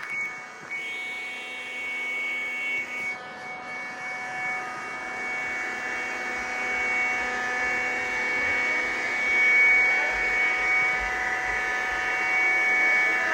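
iRobot Scooba 390 robot floor scrubber running, its motors giving a steady high-pitched whine over a whooshing noise.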